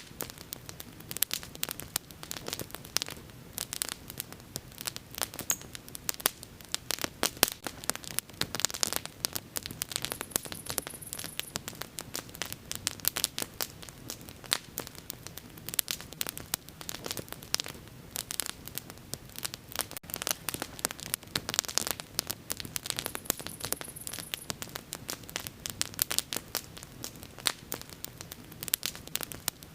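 Bonfire crackling: a dense, irregular run of sharp pops and snaps, some much louder than others, over a faint steady low rush.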